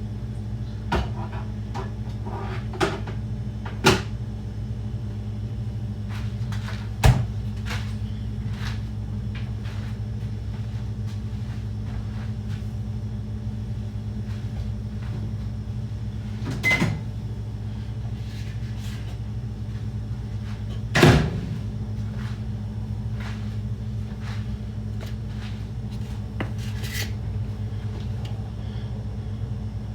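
Kitchen sounds of breakfast being made: a steady low hum from a running appliance under scattered clicks and knocks of utensils and cupboards, with louder clunks about seven and about twenty-one seconds in.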